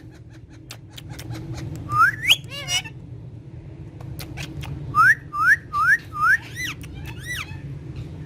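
Pet parrot whistling: a rising whistle about two seconds in, then four quick rising whistles in a row and a few more calls, with scattered sharp clicks.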